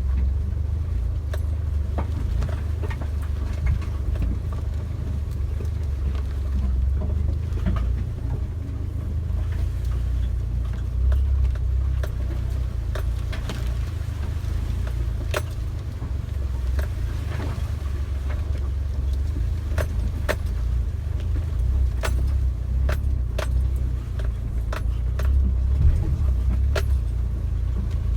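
Suzuki Jimny driving with a steady low engine and road rumble, over which come frequent sharp clicks and rattles.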